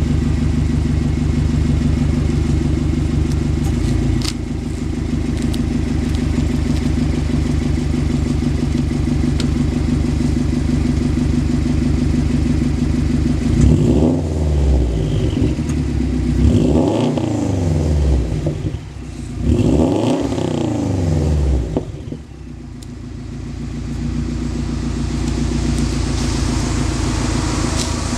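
Turbocharged 2.5-litre flat-four of a 2005 Subaru Legacy GT, Stage 2+ tuned with a catted downpipe, idling through a loud Magnaflow exhaust. About halfway through it is revved three times, each rev rising and falling back, then it settles to idle. A hiss builds near the end.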